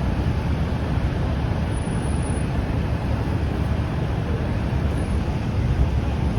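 Steady low rumble of city street traffic mixed with wind buffeting the microphone on a moving bicycle.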